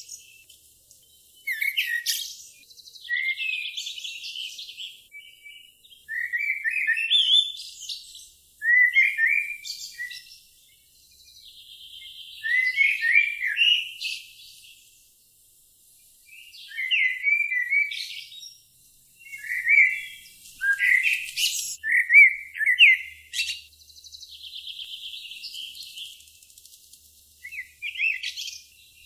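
A songbird singing: phrases of high chirps, whistles and fast trills every few seconds, with short pauses between them.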